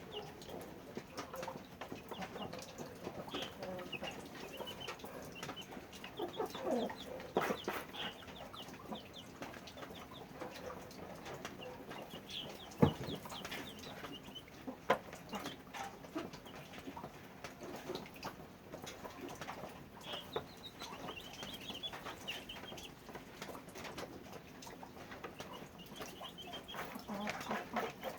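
Chickens clucking in short, scattered high calls, with small knocks and clicks here and there and one sharp knock about halfway through.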